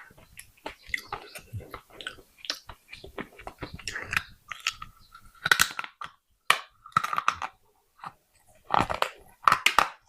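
Baked clay pot pieces being bitten and chewed close to the microphone: irregular sharp crunches, with short gaps between bites.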